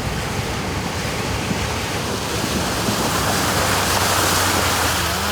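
River water rushing and splashing around a four-wheel drive as it wades through a crossing in low range, over the steady low drone of its engine; the rush of water swells about three seconds in.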